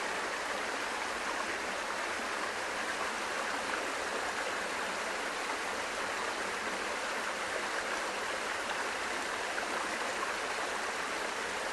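Stream water running steadily over a rocky riverbed, an even, unbroken rush.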